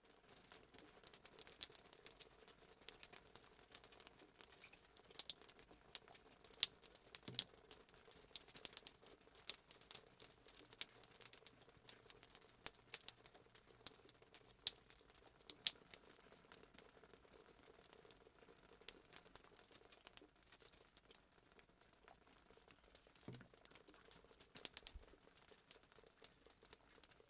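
Fireplace sound effect of a wood fire crackling, with frequent irregular sharp crackles and pops over a faint low hiss.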